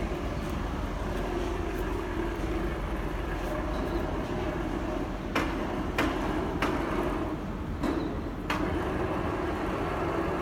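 Beiben 4x4 heavy truck running with a steady low rumble, with five sharp knocks or clunks in the middle.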